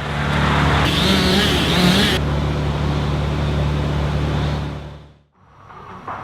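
A heavy engine running steadily at a constant note, with a burst of hiss from about one to two seconds in. It fades out about five seconds in, giving way to a quieter background.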